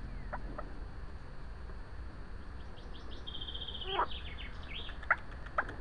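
Small birds calling at a pond: a fast, high trill about three seconds in and several short sharp chirps scattered through, over a steady low background noise.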